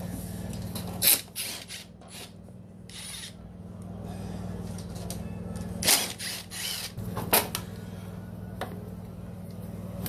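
Metal tools clicking and clattering against the snowblower's parts in several short bursts, over a steady low hum.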